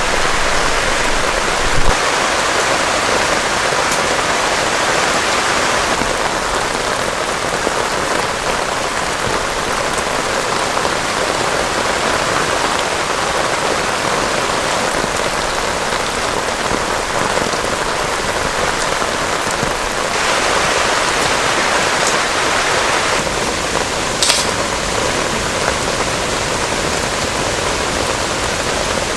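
Heavy rain falling steadily, an even hiss of drops, with one brief sharp tick near the end.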